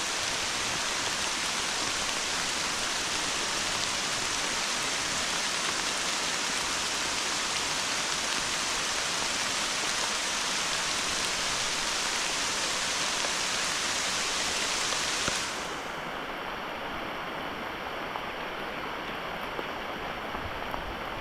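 Heavy rain falling steadily, a dense even hiss. About fifteen seconds in the sound drops abruptly to a quieter, duller rushing.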